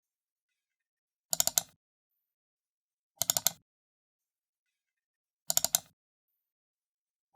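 Computer mouse button double-clicked three times, about two seconds apart, each a quick cluster of sharp plastic clicks, with a fourth double-click starting right at the end.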